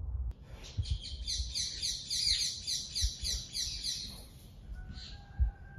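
A small songbird singing a fast run of short, high, falling chirps, about four a second, for roughly three and a half seconds, followed near the end by a thin steady whistled note.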